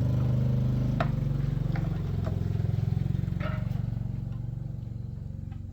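A small engine running steadily at a low, even speed, with a few sharp metallic clicks, its sound easing down over the last couple of seconds.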